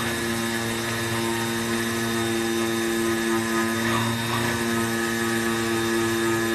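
AOKE DCZ76 flatbed CNC cutter running through a cut, a steady multi-tone motor whine over a hum. About four seconds in, the higher tones briefly dip and come back up.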